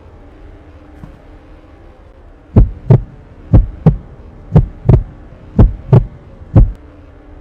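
Deep, heavy thumps in pairs, like a heartbeat, about one pair a second, starting about two and a half seconds in (four pairs, then a single thump), over a steady low hum.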